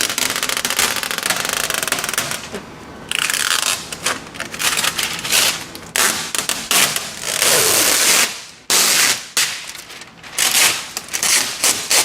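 Old window tint film being peeled and scraped off car door glass: a fast run of crackling clicks for about three seconds, then a string of irregular hissing scrapes.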